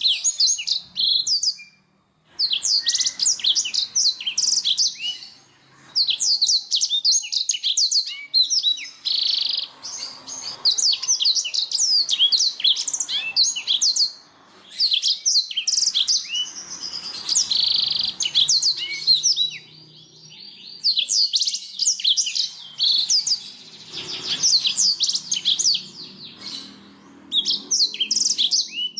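Domestic canary singing in long, fast runs of high chirps and trills, broken by short pauses, with dense buzzy rolls about nine and seventeen seconds in.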